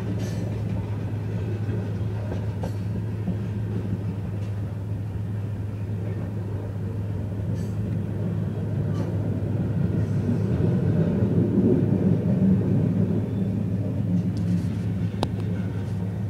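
Steady low rumble of a moving vehicle, with a few faint clicks, swelling a little louder about ten seconds in.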